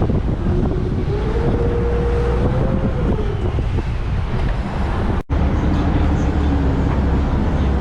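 River boat's engine running with a steady low rumble and a faint tone that rises then falls, with wind buffeting the microphone. The sound drops out for an instant about five seconds in.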